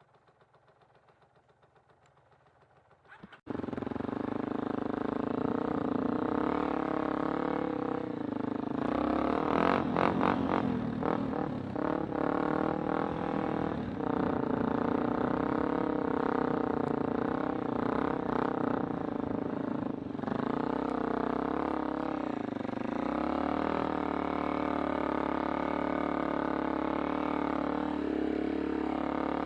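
A few seconds of near silence, then the Kawasaki Super Sherpa's single-cylinder engine starts abruptly about three and a half seconds in and keeps running with a steady drone. The engine speed shifts a little partway through.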